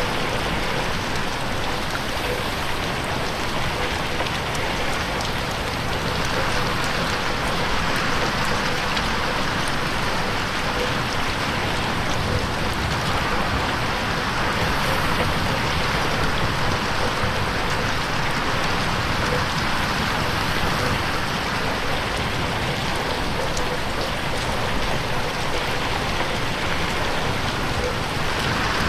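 Steady rain pattering on a window pane, an even hiss with fine drop ticks.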